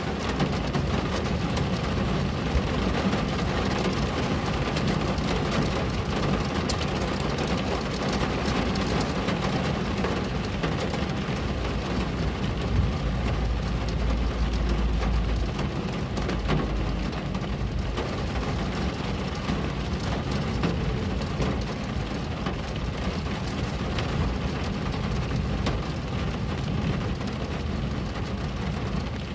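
Steady rain falling on a window, with many small drop ticks against the glass. A deeper low rumble swells for about three seconds near the middle.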